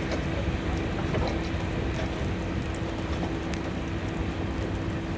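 Freight train cars rolling past on the rails: a steady rumble with a constant low hum and a few faint clicks.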